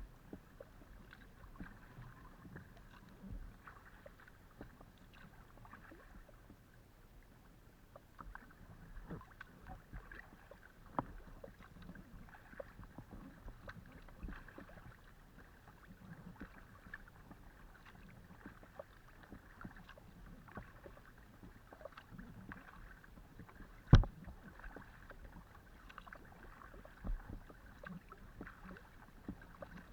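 Kayak paddling heard from a camera mounted on a Decathlon Itiwit X500 kayak: the paddle dipping and water splashing and trickling against the hull, with many small ticks and knocks. One much louder sharp knock comes about 24 seconds in.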